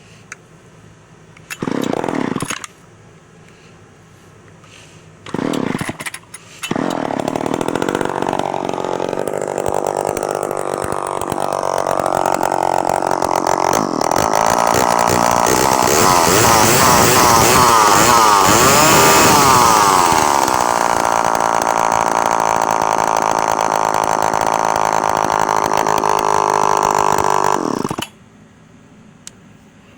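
Old two-stroke chainsaw started: it fires briefly twice and dies, then catches about seven seconds in and runs loud, revving up and down before holding a high steady speed, and cuts off suddenly near the end.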